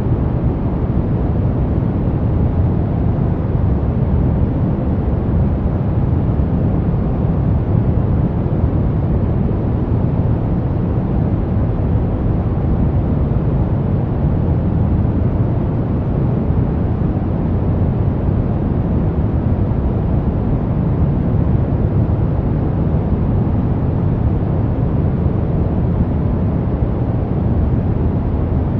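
Brown noise: a steady, deep, even hiss with most of its weight low down and little treble, unchanging throughout.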